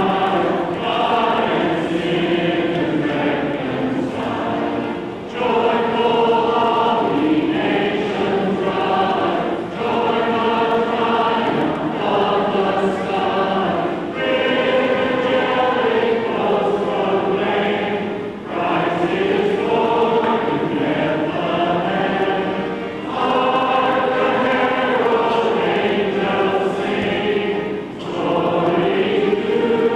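A choir singing in sustained phrases of several seconds, with short breaks between phrases.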